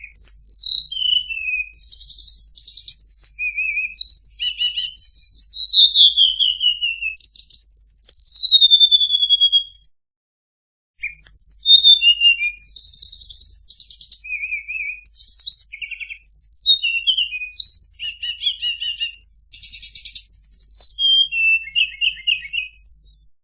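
Tledekan (blue flycatcher) song: a rapid, varied run of high whistled notes, sweeping downward glides and buzzy trills, with a pause of about a second midway.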